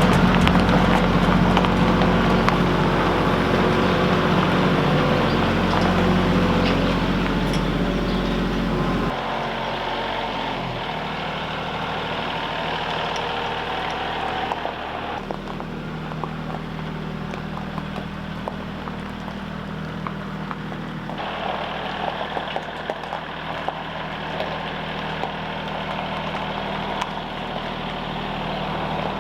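An engine running steadily. Its note drops about nine seconds in and picks up again about halfway through.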